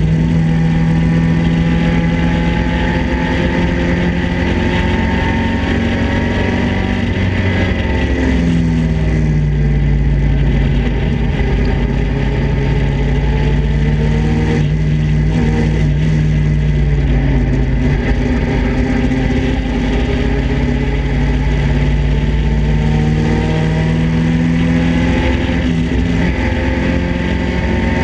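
Datsun roadster race car's four-cylinder engine running hard under load, with wind rush in the open cockpit. The engine pitch holds steady, drops about eight seconds in and sags slowly, then climbs back, with a brief break near the end.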